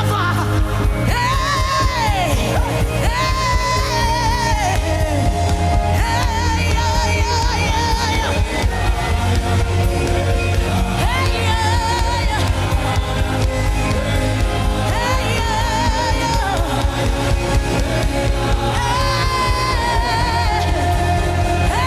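Gospel worship music: a solo voice sings long held phrases with wide vibrato, a new phrase every few seconds, over a steady instrumental accompaniment with a heavy low bass.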